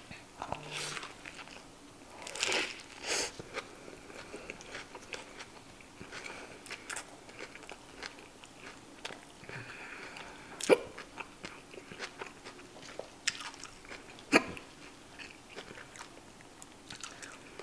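Close-miked chewing of a bitten mouthful of cheeseburger with lettuce and chopped pepperoncinis: soft crunches and wet mouth sounds, with a few sharper clicks, the loudest about ten and fourteen seconds in.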